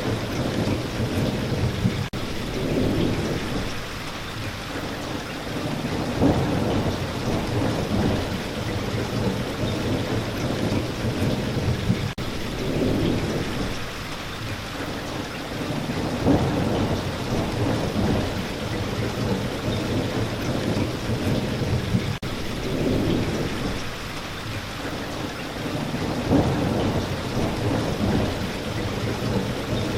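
Steady rain with low, rolling thunder, the rumble swelling about every ten seconds.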